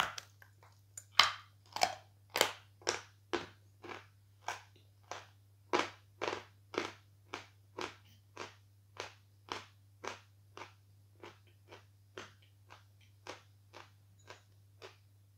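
Someone bites off and chews a piece of soft, airy lump chalk (the 'Fresh' variety): a crisp bite, then rhythmic crunches about two a second, loudest in the first few seconds and growing fainter as the chalk is ground down.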